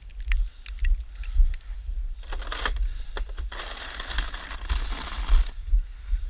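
Snow shovel scraping and pushing through snow in two strokes, a short one about two seconds in and a longer one after it, with wind buffeting the microphone in a low rumble throughout.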